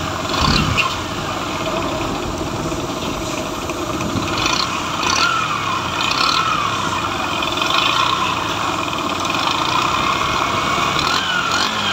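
Motorcycle engine idling with an abnormal mechanical noise, which the mechanic traces to the connecting rod. Short falling tones repeat over the running engine about every second, with a low thump about half a second in.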